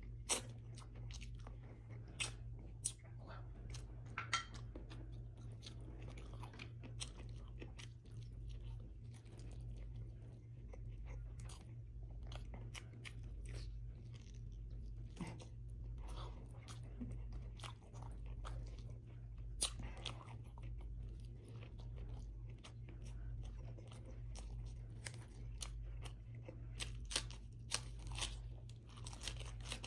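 Close-up wet chewing and biting of a person eating braised beef ribs and rice by hand, with scattered sharp crunches, including a cluster of crisp crunches from romaine lettuce near the end. A steady low hum sits underneath.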